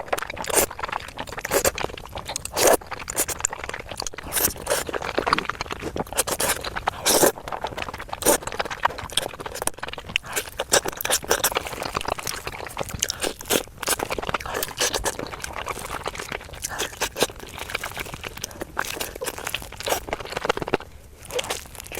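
Close-up eating sounds: irregular crunching and chewing, with frequent sharp crunches and clicks, from a mukbang of chicken noodles.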